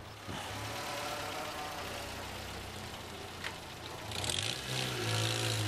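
Saipa Pride's engine running as the car moves off, a steady hum that grows louder with a hiss joining near the end. A single click sounds about three and a half seconds in.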